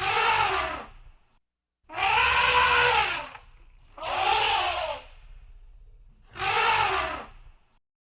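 Elephant trumpeting: four calls about two seconds apart, each about a second long, rising and then falling in pitch, with a low rumble underneath.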